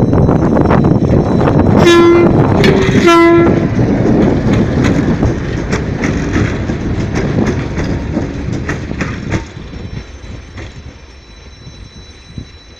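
2M62U diesel locomotive and its train rolling past, wheels clicking over the rail joints, with the locomotive's horn sounding twice about two and three seconds in. The rumble then fades as the train moves away.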